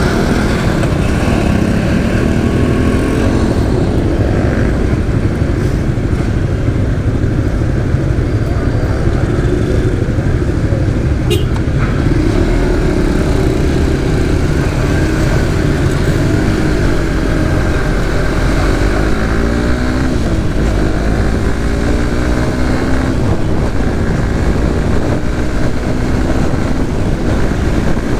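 Suzuki GSX-S150's single-cylinder engine running under way, its pitch rising and falling again and again with throttle and gear changes, over a steady low rumble.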